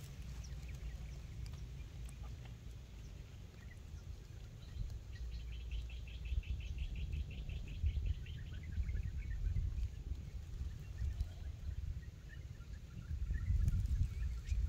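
A bird gives a rapid trill of high chirps about a third of the way in, with a few scattered chirps later, over a low outdoor rumble.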